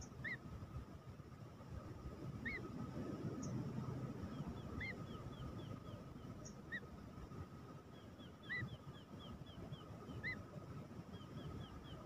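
Birds calling: single short chirps about every two seconds, with runs of rapid descending chirps a few seconds in and again near the end. Under them a faint steady high hum and a low rumbling background.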